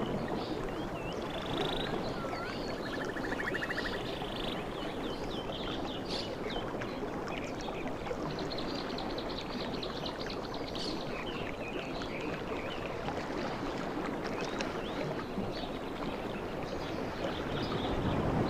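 Sea waves washing on the shore as a steady rush that swells near the end. Over it, high chirps and trills come and go through the first half.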